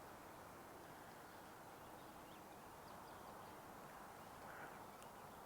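Near silence: faint, even outdoor background hiss, with a few faint short high chirps in the middle.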